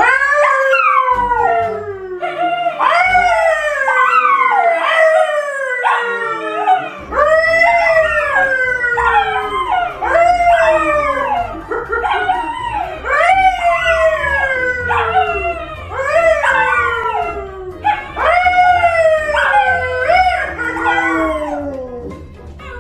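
A dog howling in a long series of calls, about one a second, each rising and then sliding down in pitch.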